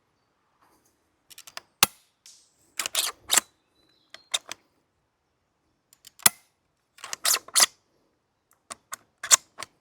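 Gas-powered bolt-action airsoft sniper rifle, a 3D-printed DVL-10 replica, firing three shots about three to four seconds apart. Each shot is a sharp crack with gas escaping. Between shots come clusters of clicks and clacks as the bolt is cycled to chamber the next BB.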